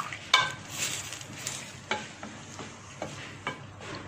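Chicken pieces and chopped onion sizzling as they fry in oil, with a stirring utensil scraping and knocking against the pan about half a dozen times. The sharpest knock comes about a third of a second in.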